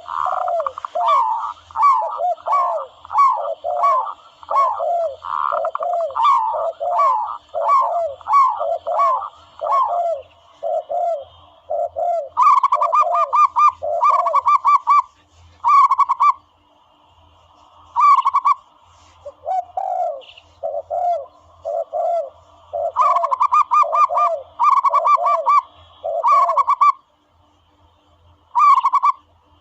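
Zebra dove (bato-bato) calls played as a hunting lure: a long series of short, soft cooing notes, about two a second, then clusters of rapid trilled notes separated by short pauses.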